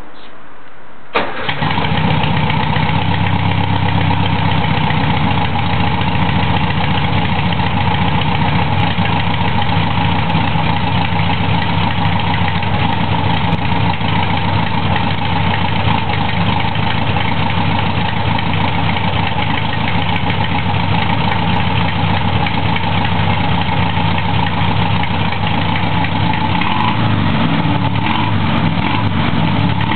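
Volkswagen Beetle 1200 L's air-cooled flat-four engine catching about a second in after a short spell of cranking, then idling steadily.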